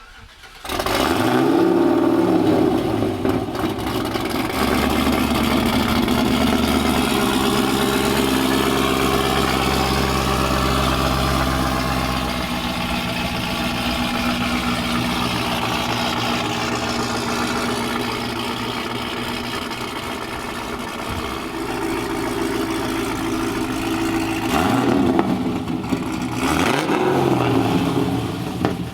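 Loud supercharged 6.2-litre V8 of a 2013 Cadillac CTS-V through open exhaust cutouts, revving up about half a second in and held at high revs for a long burnout. Near the end the revs are blipped up and down a couple of times.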